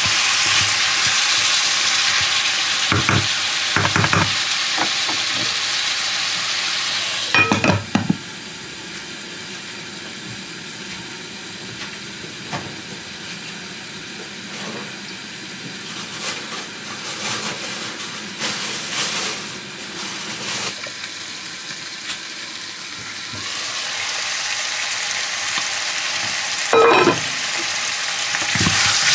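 Pork and bamboo shoots sizzling in a frying pan, with a spoon stirring and knocking against the pan. About seven seconds in a glass lid goes on with a clank and the sizzle turns much quieter and muffled; near the end the lid comes off with another clank and the sizzling is loud again.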